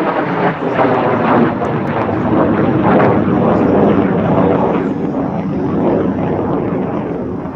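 MiG-17F jet fighter's single turbojet engine making a low pass, its noise swelling to a peak about three seconds in and then fading as it goes by.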